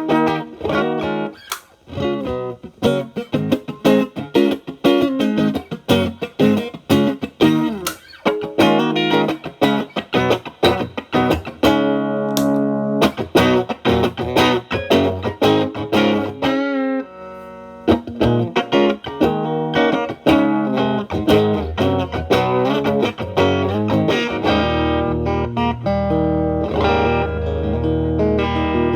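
Telecaster electric guitar through a Marshall Valvestate amp's clean channel playing short, plucked blues licks, with an MXR Distortion+ pedal in bypass. After a brief pause about two-thirds through, the pedal is switched on and the guitar plays longer, sustained chords with a lightly driven tone.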